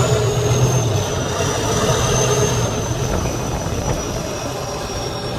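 A heavy competition truck's engine runs, its low hum strongest for about the first second and then fading, under a steady high whine.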